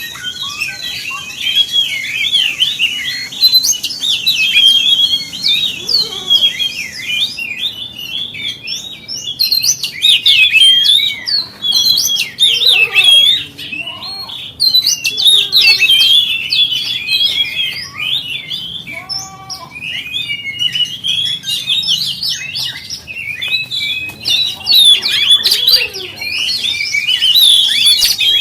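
Oriental magpie-robin (kacer) singing a continuous, fast, varied song of chirps and whistles, the kind of fired-up song played to provoke other kacers into singing.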